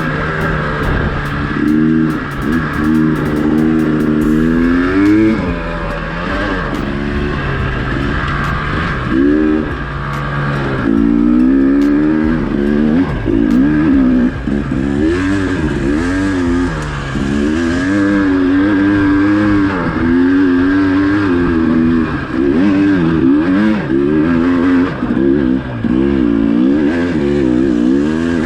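Dirt bike engine revving hard, its pitch rising and falling over and over as the rider works the throttle under load up a steep enduro hill climb.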